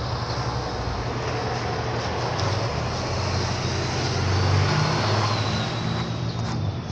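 A motor running steadily, getting louder about halfway through and then easing off, with a faint high whine that slowly falls in pitch.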